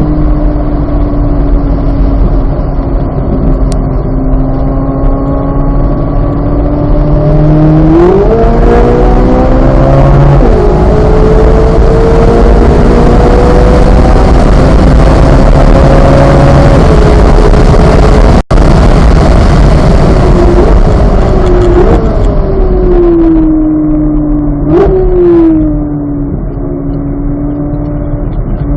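2023 Chevrolet Corvette Z06's 5.5-litre flat-plane-crank V8 at full throttle: it revs up about eight seconds in, shifts up once, and keeps climbing until a lift a little past halfway. Three quick throttle blips on downshifts follow, and the engine settles at a lower note near the end.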